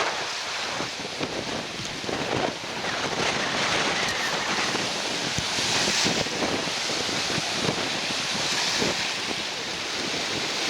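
Wind-driven lake waves washing and breaking on the shore in rough, stormy conditions, with wind buffeting the microphone. The surf swells louder a couple of times.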